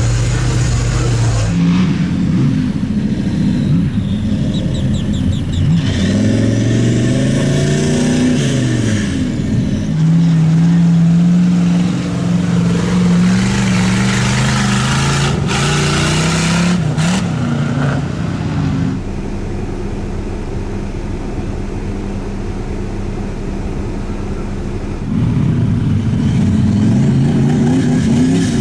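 Off-road vehicle engines revving, their pitch rising and falling several times, with a steadier, somewhat quieter stretch of engine drone past the middle.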